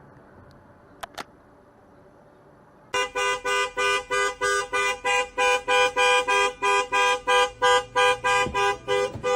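A car horn honked over and over in rapid short blasts, about four a second. It starts suddenly about three seconds in, after a few seconds of low steady road noise.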